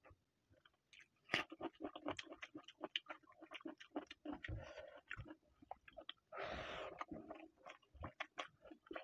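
Close-up wet chewing of a mouthful of chicken curry and rice, a dense run of quick smacking clicks that starts about a second in, with one brief, louder rush of noise about two-thirds of the way through.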